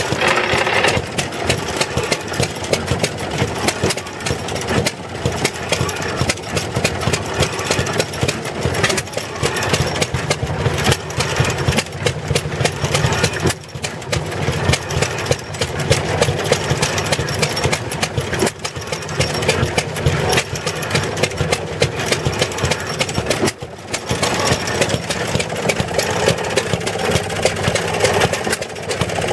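Small gasoline engine of a gas-powered Maytag wringer washer running steadily, a fast continuous train of firing pops, with two brief dips in level about halfway through and near the end.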